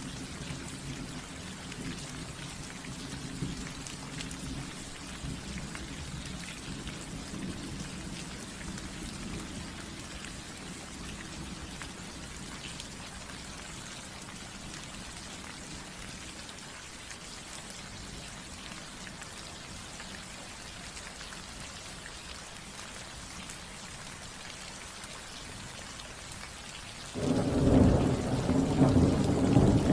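Steady rain falling on a roof, with low rolling thunder that fades over the first ten seconds or so. About three seconds before the end, a sudden loud thunderclap breaks in and rumbles on.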